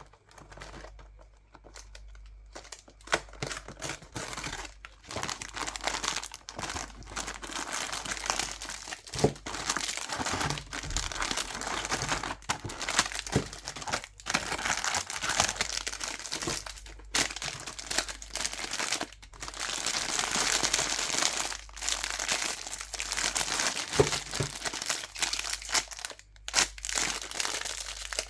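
Plastic candy wrappers crinkling and being torn open, close up: a dense run of crackles and sharp clicks, quieter for the first few seconds.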